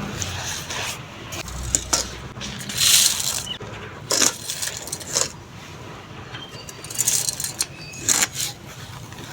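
Lumps of soft compressed sand crumbling and being crushed against a clay pot: a string of sudden gritty crunches and sandy trickles at irregular intervals, the loudest about three seconds in.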